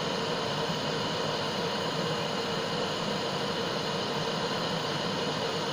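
Steady roar of a gas torch flame burning, an even hiss with a faint low hum, while molten tin-lead solder is poured.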